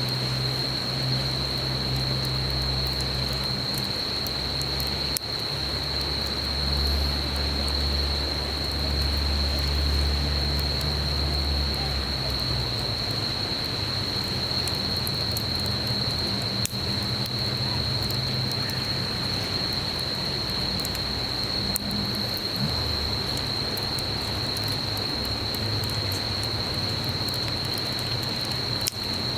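A wood campfire crackling with sparse small pops, over the steady rush of a flowing stream and a continuous high-pitched drone of insects.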